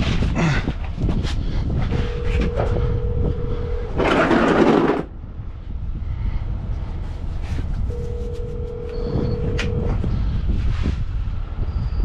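Scattered clicks and knocks of hand tools working on a heavy truck's driveline bolts, over a steady low rumble. A loud hiss lasts about a second, four seconds in, and a steady hum comes and goes twice.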